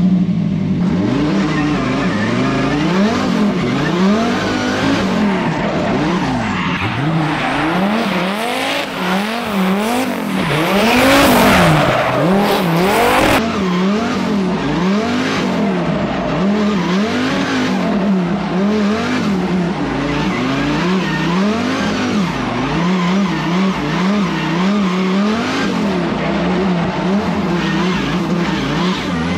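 Twin-turbo V10 Dodge Viper engine revving up and down again and again while drifting, on its lowest boost setting of 6 psi, with tyres squealing. A loud hiss rises about ten seconds in and cuts off suddenly a few seconds later.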